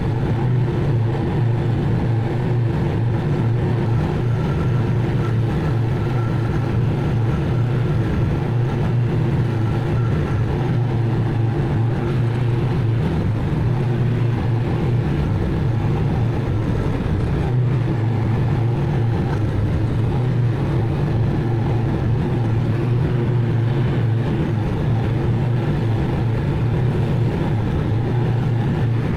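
Zero-turn mower engine running steadily under load, with the cutting deck working through the grass.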